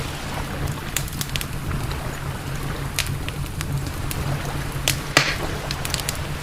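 Campfire crackling: scattered sharp pops and snaps, with a louder pop and a brief hiss about five seconds in, over a steady low rumble.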